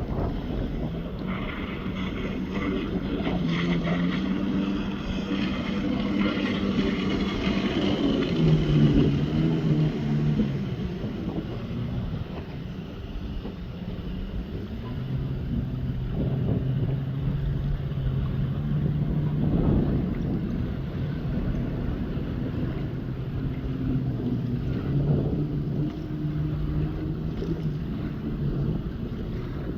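Jet ski engine running under way, its pitch stepping up and down with the throttle, with wind buffeting the microphone and water rushing past the hull.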